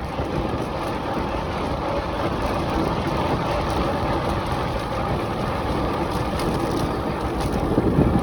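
Wind rushing over the microphone and steady road noise from a bicycle being ridden uphill.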